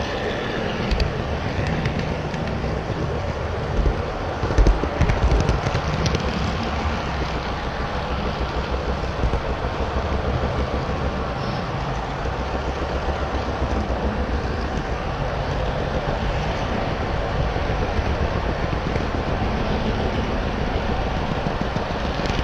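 HO scale model trains running on the layout: a steady rumble of wheels on track with a few louder knocks about four to six seconds in.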